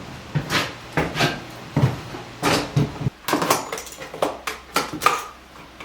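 Small hard objects being handled and rummaged through: a quick irregular series of sharp clicks and knocks, about a dozen in all.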